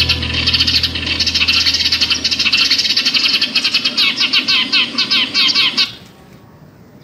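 Dense chorus of rapid small-bird chirps, the calls of pipit birds used as a lure, which cuts off suddenly about six seconds in.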